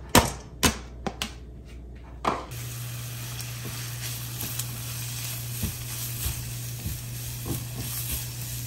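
Diced carrot and shiitake mushroom dropping into a hot oiled nonstick wok with a few sharp clatters, then sizzling steadily as they are stir-fried, with occasional scrapes of a spatula across the pan. A low steady hum sits under the sizzle after the first couple of seconds.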